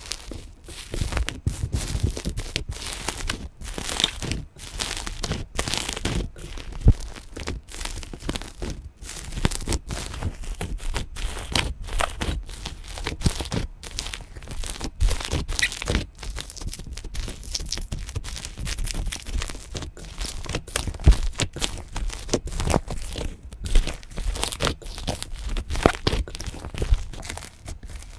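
Slime being squeezed and stretched by hand: an irregular, continuous run of crackles and small pops, with a few sharper louder pops.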